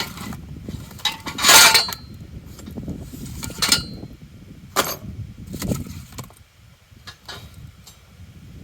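A steel truck-hitch game hoist and its box being handled and opened: a string of rustling, scraping noises with light metal clinks. The loudest scrape lasts under a second, about one and a half seconds in, and a few shorter ones follow.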